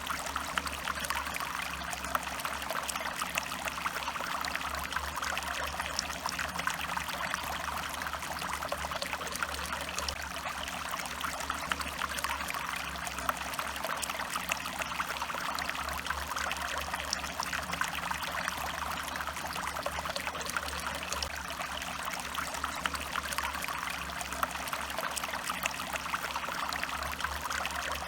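Stream water trickling and flowing steadily, without pause.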